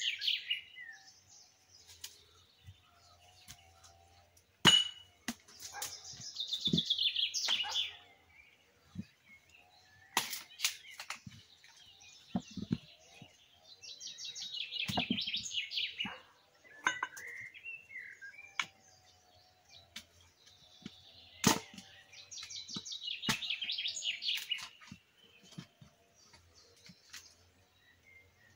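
A songbird singing the same trilled, falling phrase of about two seconds over and over, about every eight seconds, with a few sharp knocks in between, the loudest about five seconds in and another a little past twenty-one seconds.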